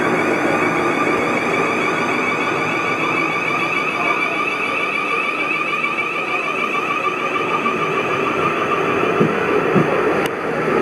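Train running with a steady, loud noise and a high, rapidly warbling whine.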